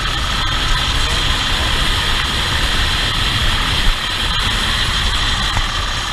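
Vehicle engine and road noise during a chase at speed, steady, with a constant high hiss over a low rumble.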